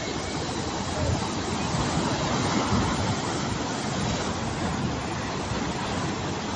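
Strong wind blowing on the microphone over rough sea surf breaking on the shore, a dense steady noise with a low rumble.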